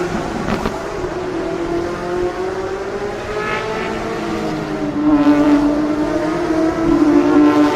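GT3 race cars running past at racing speed, one after another, their engines at high revs with the pitch rising and falling as each goes by; it gets louder just past the middle.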